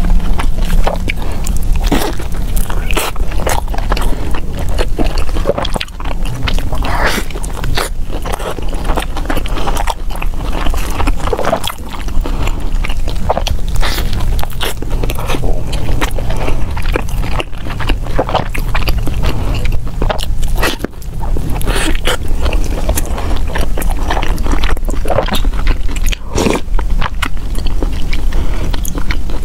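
Close-miked biting and chewing of a seaweed-wrapped purple rice roll filled with sweet corn and salad dressing: many short sharp mouth clicks over a steady low hum.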